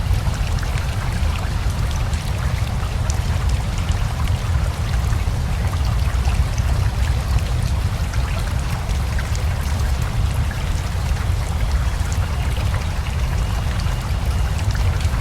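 Steady rain mixed with a rushing river: an even deep rumble of running water under a constant hiss, with scattered small ticks of drops.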